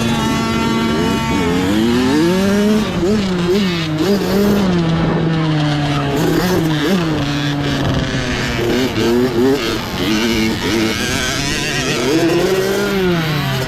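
Mini bike engines revving, their pitch rising and falling again and again with overlapping lines.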